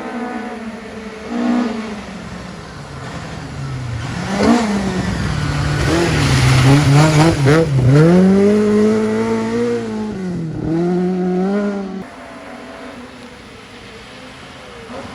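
Rally car engine revving hard as the car approaches and passes at speed, its pitch rising and dipping through several quick gear changes, loudest in the middle. About three-quarters of the way through the sound cuts off abruptly to a quieter, more distant engine.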